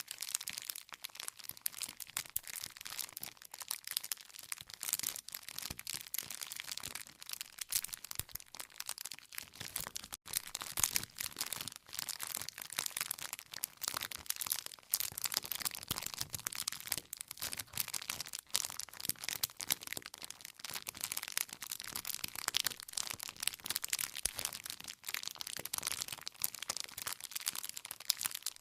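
Wood fire crackling: a steady stream of small pops and snaps from burning firewood over a soft hiss.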